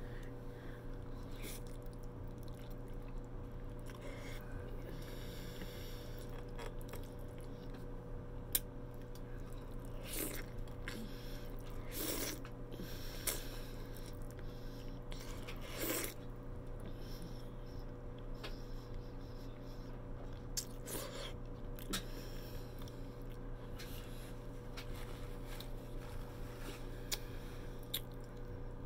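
Close-up eating sounds: wet chewing and biting of soft stuffed cabbage, with scattered short clicks, over a steady electrical hum.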